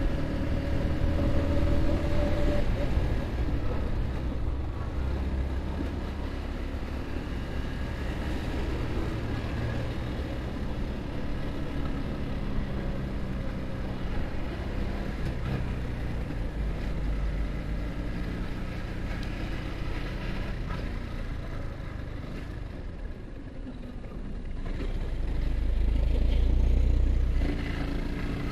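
Yamaha R15's single-cylinder engine running steadily at cruising speed, heard from the rider's position with wind rushing over the microphone. The low wind rumble swells near the end.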